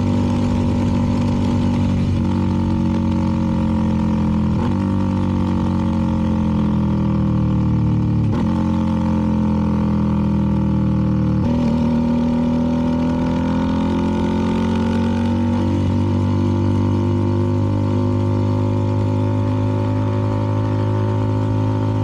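CFMoto 300NK's single-cylinder engine running through a KO aftermarket exhaust while riding. The engine note slides and jumps sharply about four times in the first half, as with gear changes, then holds a steady note.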